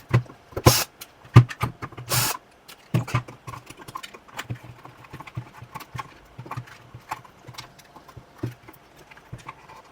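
Irregular clicks and knocks of metal and plastic parts and screws being handled as a Synology DS918+ NAS is taken apart to lift out its motherboard. The louder knocks come in the first three seconds, then lighter, quicker clicking.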